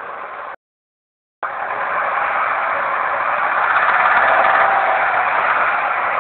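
Daewoo Nexia engine running with the knock that the owner takes for a worn piston pin. It drops out for about a second near the start, then comes back louder, swelling a little in the middle.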